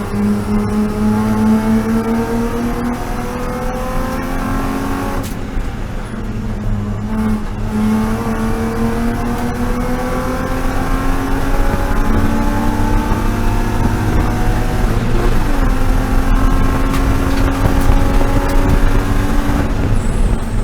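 BMW E36 M3 race car's straight-six engine accelerating hard, its pitch climbing through the revs, with an upshift about five seconds in, climbing again and then running at steady high revs before lifting near the end.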